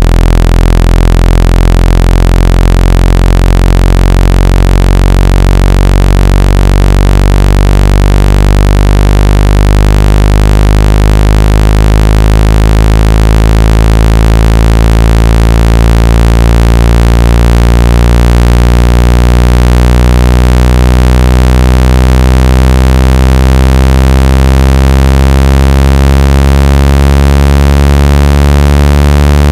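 Synthesized speaker water-ejection tone: a loud, low electronic buzz played to vibrate water out of a phone or earphone speaker. Its overtones slowly rise in pitch, and the deepest part fades near the end.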